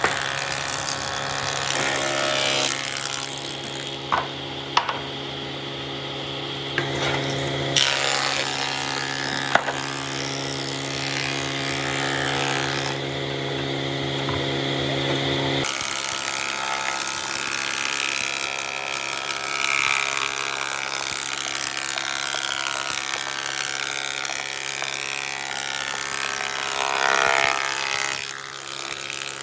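Woodworking power tools running, a steady motor hum with scattered sharp knocks, the sound changing abruptly several times as one tool gives way to another.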